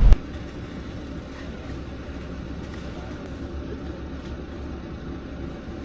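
A steady low rumble, like a vehicle engine running, after the sound cuts off abruptly at the very start.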